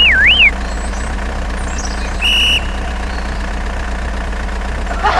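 A steady, low engine-like drone, like an idling truck engine. A short warbling whistle sounds at the very start, and a brief beep comes about two seconds in.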